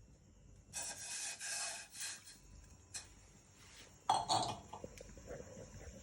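Kitchen preparation noises: about a second and a half of scraping or rubbing, a single click, then a louder clatter of kitchenware about four seconds in.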